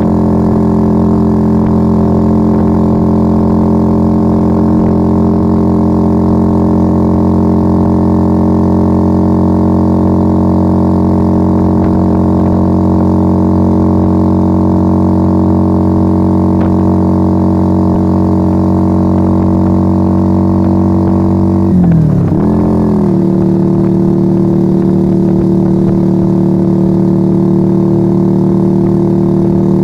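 Yamaha XV125 Virago's air-cooled V-twin running through a straight-piped Turbo Kit exhaust without dB killers, under way at a steady engine speed. About 22 seconds in, the engine pitch drops and climbs back within a second, then holds steady again.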